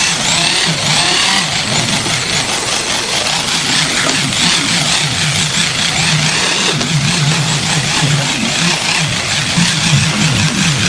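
A cleaning machine's motor running steadily with a high whine, rising as it spins up near the start.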